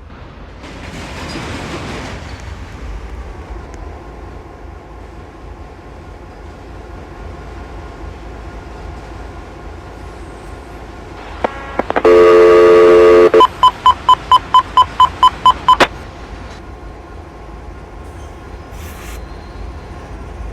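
Locomotive air horn sounding one loud chord of several notes for about a second and a half, followed at once by a few seconds of a rapidly pulsing high bell-like tone, typical of a grade-crossing bell. A steady low hum of road noise runs underneath.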